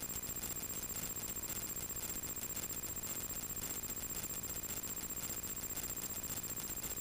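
Steady hiss with a thin constant high-pitched whine and a low hum, the background noise of a light aircraft's radio and intercom audio feed between transmissions.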